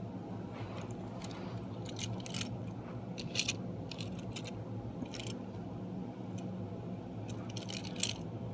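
Small push-along toy trains being handled, giving a scatter of light clicks and taps over a steady low hum.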